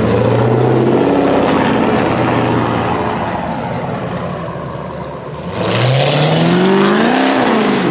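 Car engine running steadily, then revving hard about five and a half seconds in, its pitch climbing and falling away again near the end.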